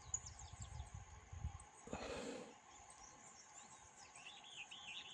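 Faint bird chirping, a quick run of short arched chirps near the end, over a steady high whine. A low rumble of handling noise fills the first second and a half, and a brief rustle comes about two seconds in.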